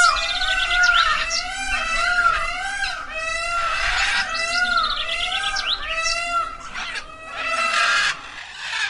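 Animal calls: several overlapping, rapidly repeated cries that rise and fall in pitch, with a few harsher hoarse calls among them.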